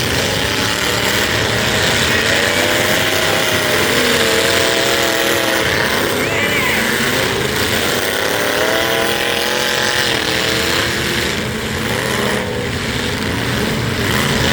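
Big-truck engines in a demolition derby revving, rising and falling in pitch several times over a steady mass of noise.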